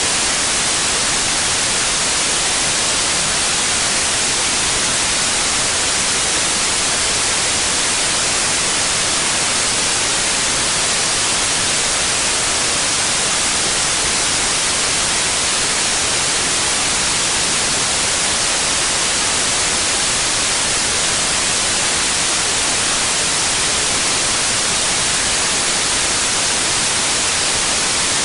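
Steady white noise: an even, unchanging hiss, strongest in the upper range, with no variation or events.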